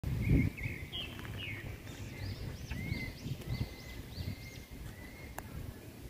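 Birds chirping in garden trees: a run of short, arching notes, about three a second, near the middle, over a steady low rumbling noise. A loud low thump comes just after the start and a sharp click near the end.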